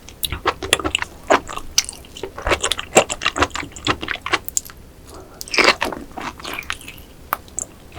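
Close-miked eating sounds: a person biting and chewing raw oyster sashimi salad, with many irregular wet clicks and crunches and a longer squelching smear a little past the middle.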